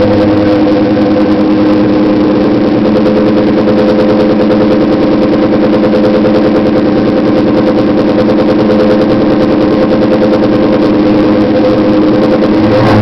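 1997 Ford Mustang GT's 4.6-litre V8 running at a steady engine speed through a Bassani X-pipe and Flowmaster mufflers, an even, unbroken exhaust note.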